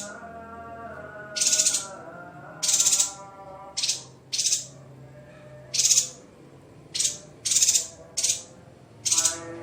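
Songbird giving about nine short, harsh, rasping calls at irregular intervals, over quiet background music.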